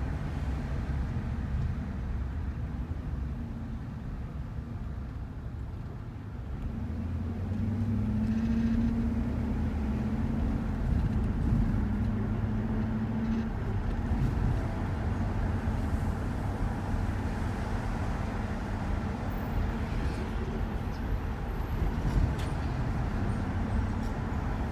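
A shuttle van driving, with a steady low rumble of road and engine noise. The engine hum grows louder from about eight seconds in and eases off around thirteen seconds.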